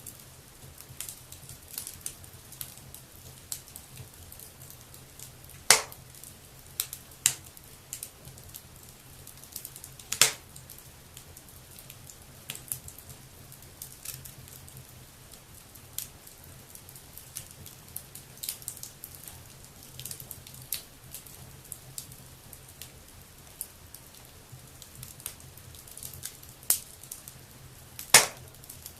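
Wood fire burning in a fireplace, crackling with a steady scatter of small snaps and three loud pops: about six seconds in, about ten seconds in, and near the end.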